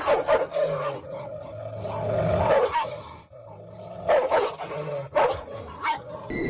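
A dog barking and growling, with sharp barks near the start and again in the second half.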